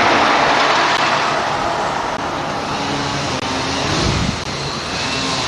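Car running on the road, a steady rush of engine and tyre noise.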